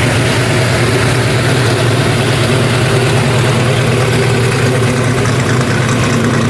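Car engine idling steadily, a low even rumble with no revving.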